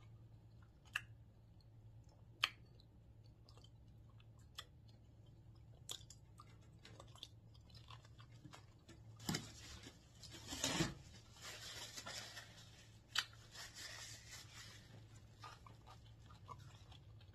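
A person chewing and crunching food up close to the microphone, with scattered sharp mouth clicks and smacks. From about nine seconds in there is a louder run of crunching, after a bite of a fresh piece of food.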